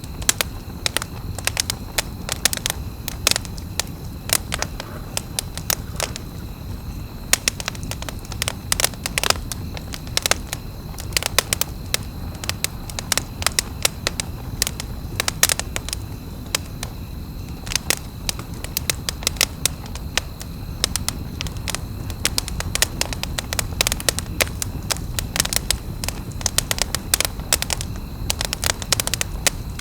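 Wood campfire crackling, with many sharp, irregular pops and snaps over a low, steady rush of burning.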